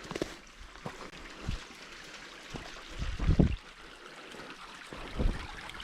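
Running water of a stream, trickling steadily, with a few scattered low thumps, the strongest about three seconds in.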